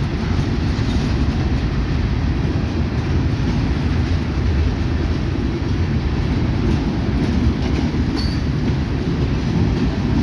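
Kansas City Southern freight train rolling past, a steady low rumble of wheels on the rails.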